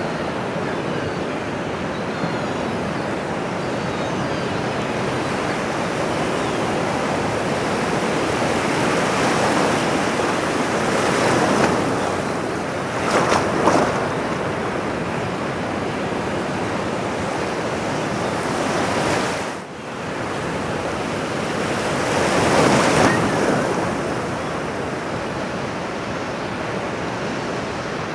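Ocean surf: a steady wash of waves, swelling louder twice, about halfway through and again about four-fifths of the way in, with a brief drop in level just before the second swell.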